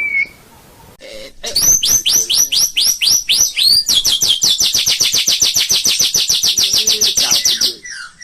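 White-rumped shama (murai batu) singing: a run of quick falling whistles, about four a second, breaks into a fast, even trill of about ten notes a second, which stops shortly before the end.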